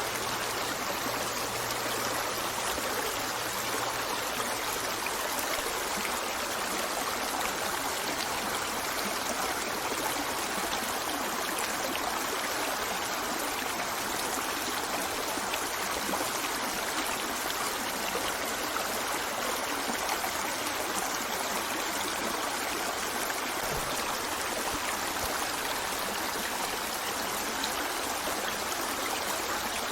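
Steady, even rush of flowing water, as from a forest stream. A faint low hum sits under it and fades out about five seconds in.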